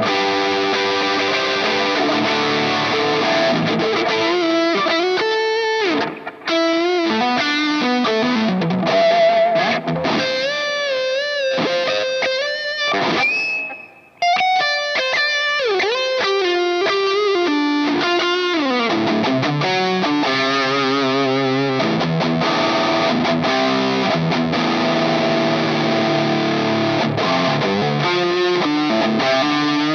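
Electric guitar played through a Nux MG-300 multi-effects processor on a distorted tone, running single-note lead lines with string bends and vibrato. Near the middle it holds one high sustained note, and the sound dips briefly twice.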